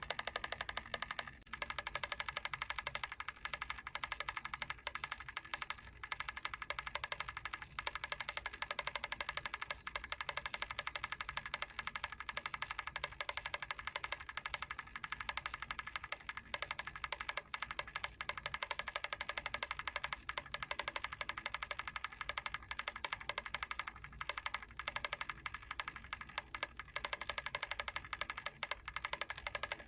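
Mechanical timer ticking fast and evenly, a dense unbroken run of small clicks.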